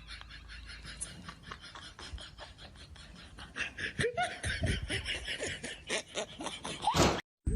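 Laughter in a quick run of short, repeated breathy pulses, getting louder about halfway through.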